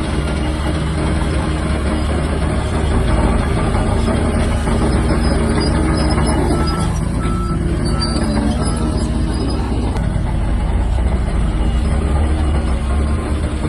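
Large bulldozer's diesel engine running steadily at working revs with a deep hum. Around the middle, a short run of about four reversing beeps sounds over it.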